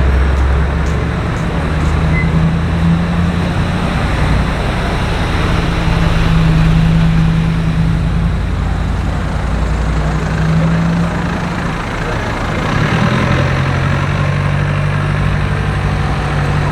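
City street traffic: vehicle engines running with a steady low hum over road noise, the hum shifting in pitch about twelve seconds in.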